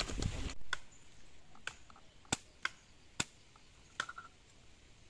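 Rustling for the first half second, then a handful of sharp, isolated clicks at irregular intervals, about one a second, with no saw running.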